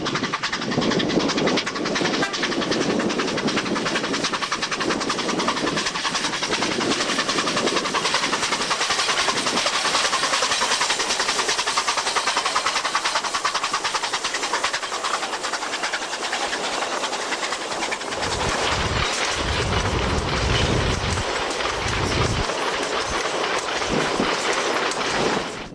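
Narrow-gauge steam train of empty coal wagons running on 75 cm gauge track, its wheels clattering steadily over the rail joints. Deep rumbling bursts come in near the end.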